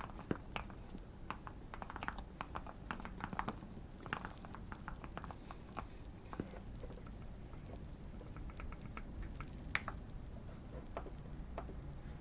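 Typing on a tape- and foam-modded Keychron Q1 custom mechanical keyboard: quick, irregular runs of key clicks, dense for the first few seconds, then sparser with pauses. A light fire crackle and a low steady hum sit behind it.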